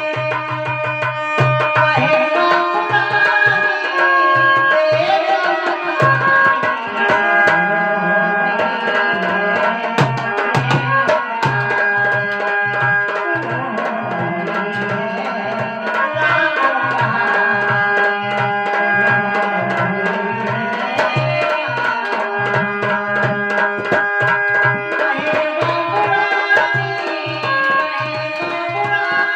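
Instrumental interlude of a devotional bhajan: tabla-style hand drum keeping a steady beat of about two strokes a second under a sustained melody instrument.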